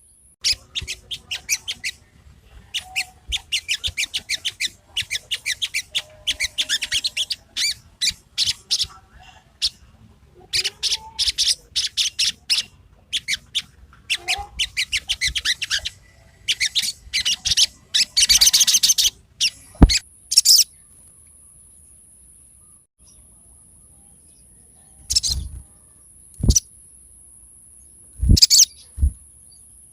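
A sogon songbird chattering in fast, rapid-fire runs of high notes, one run after another, for about twenty seconds. After that only a few short calls come near the end, over a thin, steady high hiss.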